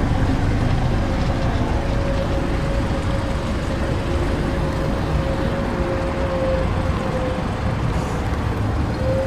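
Mazda 6 idling at the rear by its exhaust tips: a steady low rumble with a faint steady hum above it.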